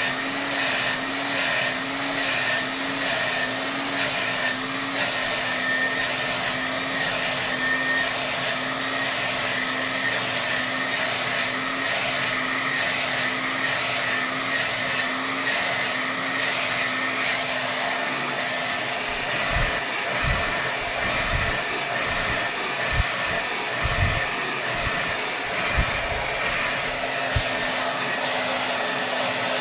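Hair dryer running steadily at full power, a continuous rush of air with a steady hum under it. In the second half a few brief low thumps stand out against it.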